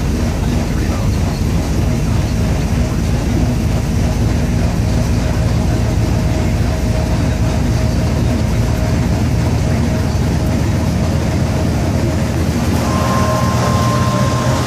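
Chevy 350 V8 of a 1995 K1500 pickup running steadily just after a cold start at 30 below zero. A high steady whine joins near the end.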